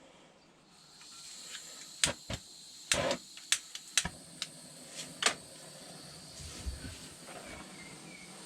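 Gas blowtorch hissing steadily, its flame singeing fine raised wood fibres off a freshly sanded wooden handle. About eight sharp clicks come between two and five and a half seconds in.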